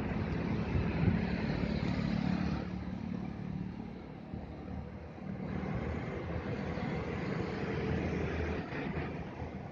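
Street traffic: the mixed noise of passing motor vehicle engines. It eases off for a couple of seconds midway, then builds again.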